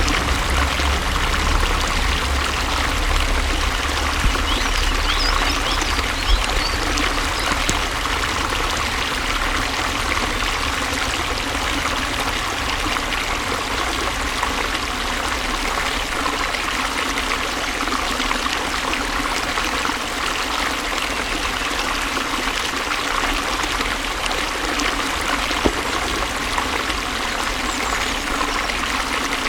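Water flowing and trickling steadily in a stream, an even rushing and burbling that stays constant.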